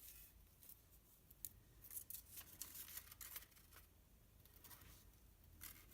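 Faint, scattered light clicks and short rustles of paper craft pieces and glue dots being handled and pressed into place.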